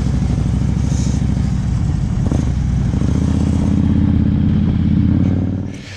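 Motorcycle engine running while riding. Its pitch holds steady from about halfway, and the sound drops away sharply just before the end.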